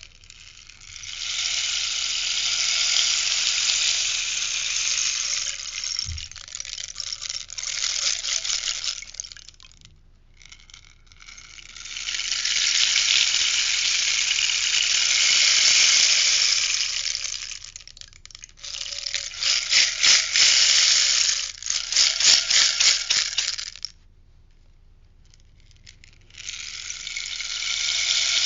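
Rainstick tipped back and forth, its pellets pouring through in long rushing cascades of several seconds each. In the second half it gives a run of quicker, choppier rattles, then pauses briefly before the last pour.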